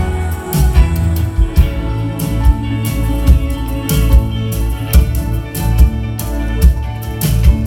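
Live band music, an instrumental passage: sustained guitar and keyboard chords over a steady drum beat.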